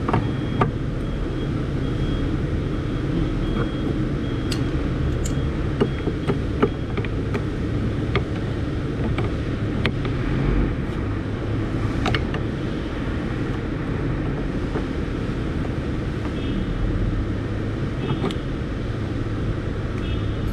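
Steady low engine hum, with scattered sharp clicks and taps on top.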